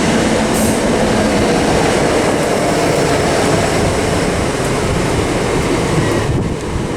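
Greater Anglia Class 321 electric multiple unit pulling into the platform: a steady rumble of its wheels on the rails.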